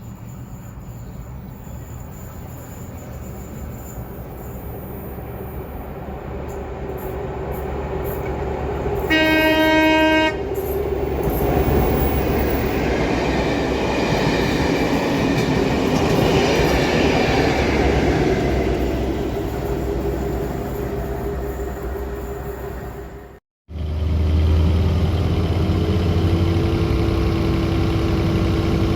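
A train approaching with a rising rumble. It sounds its horn once, briefly, about a third of the way in, then passes loudly. After a cut near the end, a different engine idles steadily.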